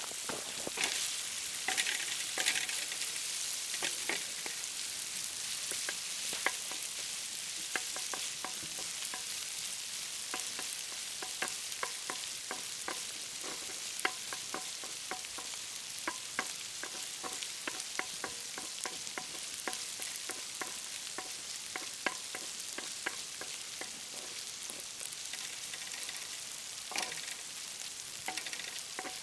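Food sizzling as it fries, a steady hiss broken by frequent short clicks and scrapes of a utensil stirring it.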